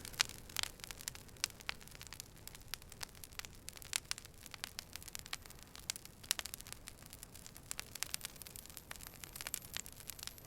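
Wood fire burning: irregular sharp crackles and pops over a faint steady hiss.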